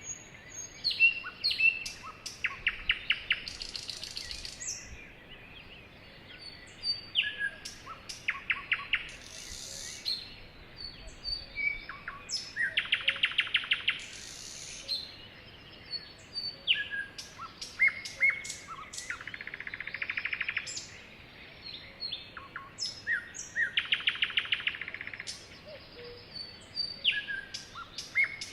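Sparrows chirping and singing: short chirps mixed with repeated fast trills and buzzy notes, coming again and again.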